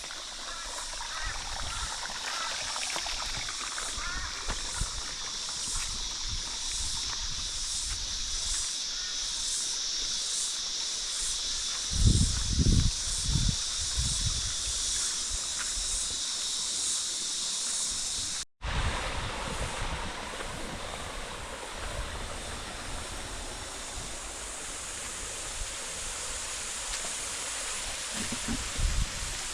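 Outdoor bush ambience: a steady high hiss with an even pulsing in it. Low rumbling bumps come about twelve seconds in, and the sound drops out for an instant just past halfway.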